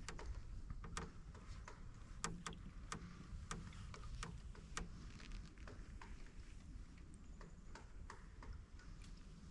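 Creaky canoe giving irregular sharp clicks and creaks as it is paddled, about two a second, over a low steady rumble.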